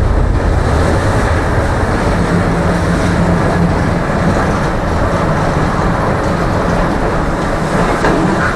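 Tram running along the track, a steady rumble of wheels on rails with a faint motor hum from about two seconds in.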